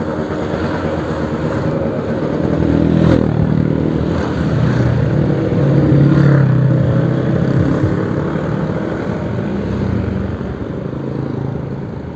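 Suzuki RC100 two-stroke single-cylinder engine running through a new exhaust, its note rising and falling, loudest about three and six seconds in.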